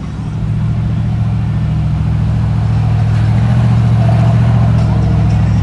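A pickup truck's engine and exhaust running with a steady, deep drone as it passes, growing louder over the first few seconds and then holding.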